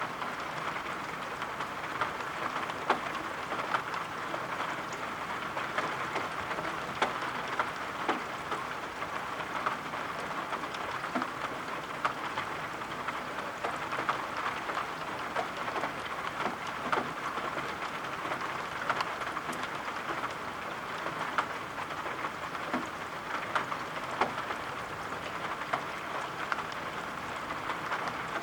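Steady rain falling, an even hiss with many scattered drop ticks throughout.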